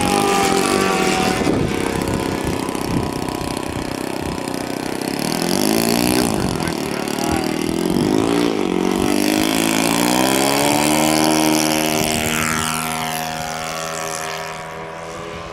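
Radio-controlled model airplane flying, its motor and propeller whining and swinging up and down in pitch several times, with a falling pitch as it passes near the end.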